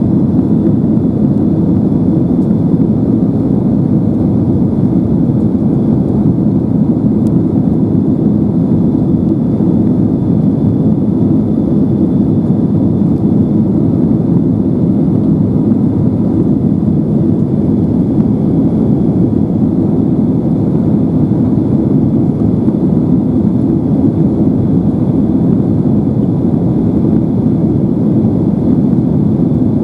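Steady, loud cabin noise inside a Boeing 767-300ER airliner: a low engine and airflow drone with a faint high whine above it, unchanging throughout.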